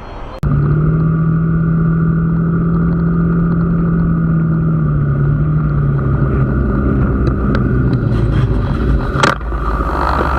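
Road vehicle engine running steadily with road noise: a constant drone that starts abruptly about half a second in and drops a little in pitch about halfway through. There is a sharp click near the end.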